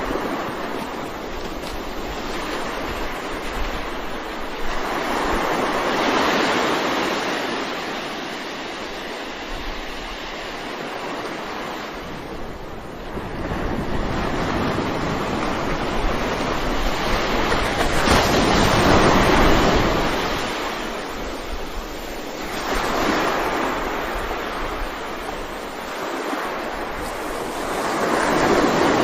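Ocean waves breaking and washing on a shore, the surf swelling and ebbing in slow surges every few seconds, the loudest of them about two-thirds of the way through.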